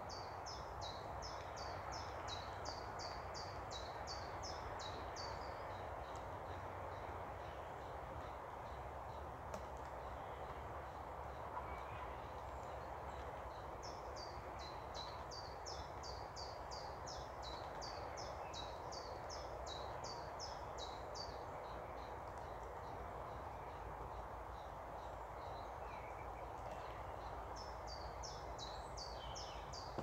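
A songbird singing long runs of quick, high, downward-slurred notes, about three or four a second: one run ends about five seconds in, another lasts from about fourteen to twenty-one seconds, and a third starts near the end. Under it lies a steady, faint background hiss and low hum.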